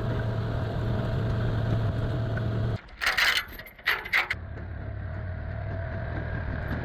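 Side-by-side utility vehicle's engine running steadily at idle, broken about three seconds in by a second and a half of sharp, noisy crackling before the engine sound returns.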